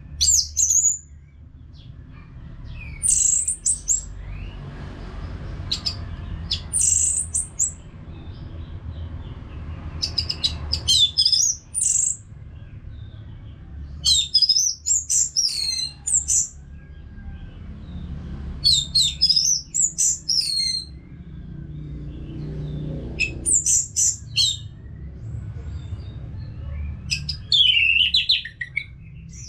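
Orange-headed thrush singing: phrase after phrase of quick, high, sliding whistled notes, each lasting a second or so, with short pauses between, over a low steady hum.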